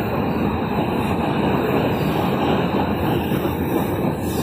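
Comet passenger coaches of a SEPTA push-pull train rolling past, a steady noise of steel wheels running on the rails.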